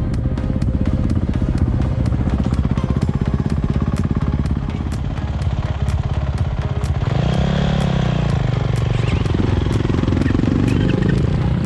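Enduro motorcycle engine running under way, with the revs rising and falling about seven seconds in.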